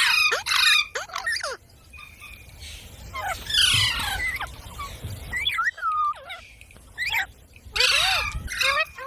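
Parrot squawking and calling: a string of short gliding chirps broken by three louder, harsher screeches, one at the start, one about three and a half seconds in and one near the end.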